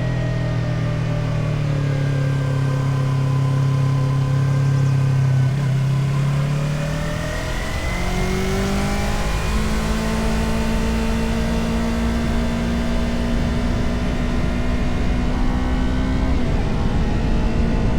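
Motorcycle engine running while riding, with wind rumble on the microphone. Its pitch eases down over the first few seconds, then climbs as it accelerates about eight seconds in and holds steady at cruise, with a small step near the end.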